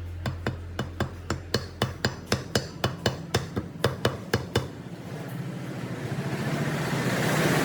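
A quick run of hammer strikes, about four a second for some four seconds, then a hiss that grows steadily louder.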